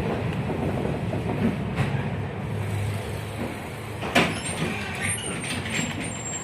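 A 71-619KT tram running with a steady rumble of wheels and running gear, heard from inside the car, growing gradually quieter as it slows. A single sharp clack comes about four seconds in, and faint high squeals follow near the end.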